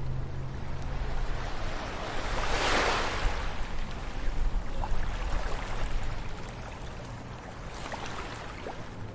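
Ocean surf on a beach: a wave breaks about two and a half seconds in, and its wash fades over the next few seconds. A smaller wave breaks near the end, over a steady low rumble of the sea.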